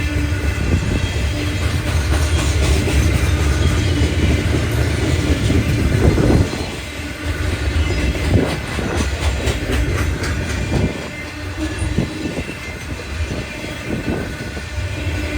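A train passes close by with a heavy low rumble and a run of wheel clicks over the rails. It gets quieter about halfway through.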